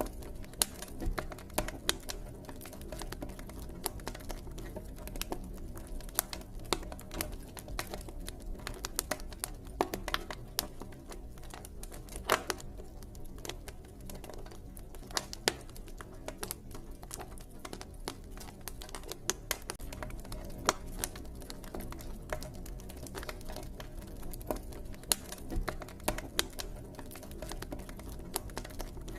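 Wood campfire crackling: irregular sharp pops and snaps, several a second with a few louder ones, over a low steady rumble.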